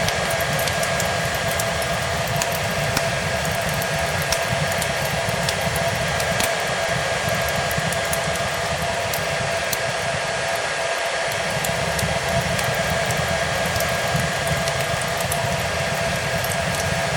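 Hair dryer running steadily: a constant rushing noise with a steady motor whine. It is mixed with scattered small crackles and pops of a wood fire in a fireplace.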